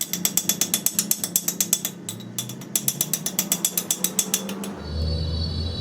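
Ratchet wrench clicking rapidly, about eight clicks a second, with a brief pause after about two seconds. Near the end the clicking stops and a machine motor starts with a steady low hum.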